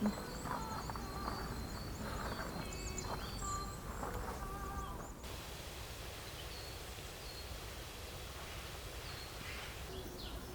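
Outdoor nature ambience: small birds chirping and calling over a steady low hiss, with many quick high chirps at first and only scattered chirps after an abrupt change about five seconds in.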